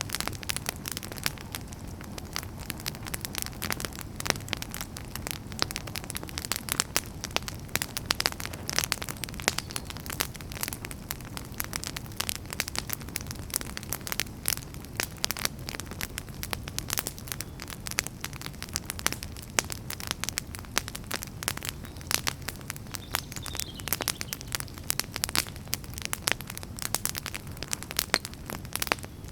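Wood fire crackling in a fireplace: dense, irregular pops and snaps over a low, steady rush of flames.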